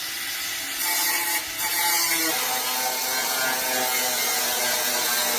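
A power tool running steadily, giving a loud continuous hiss with a steady hum under it.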